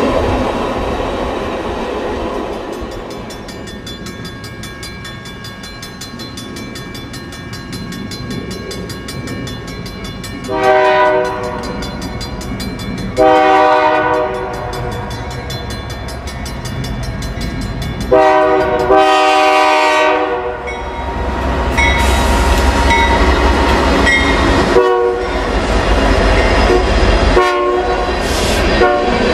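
Double-stack container train rolling past with wheel and rail noise. Then an approaching freight train's air horn sounds three blasts, each longer than the last, and its diesel locomotives pass close, with loud low engine and wheel noise.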